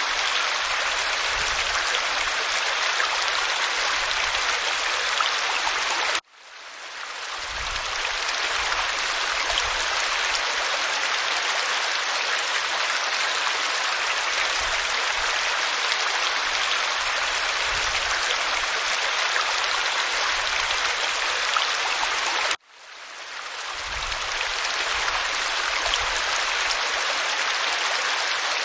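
Steady rush of a waterfall splashing onto rock. It drops out abruptly twice, about six seconds in and again after about twenty-two seconds, and swells back to full level over a second or two each time.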